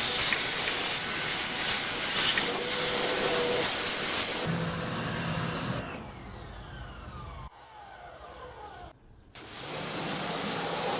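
Pressure washer spraying water over an engine bay, rinsing off degreaser: a steady loud hiss. About halfway through the spray stops and a falling whine is heard, then the spray starts again near the end.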